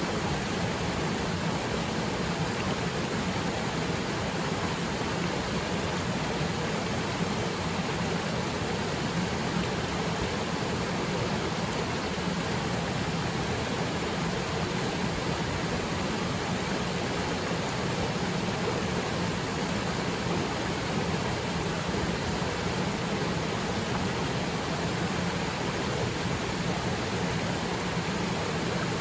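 Waterfall pouring into water: a steady, unbroken rush of falling water.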